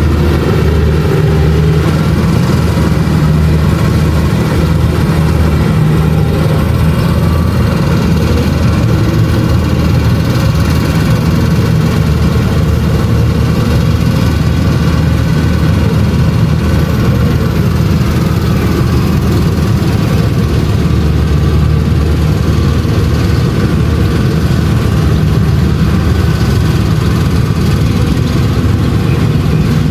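Kubota DC-70 Plus rice combine harvester running steadily with a constant low diesel engine drone.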